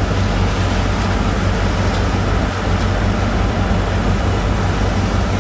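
Engine of a sand-pumping rig running steadily under load, with a constant low drone and dense noise over it.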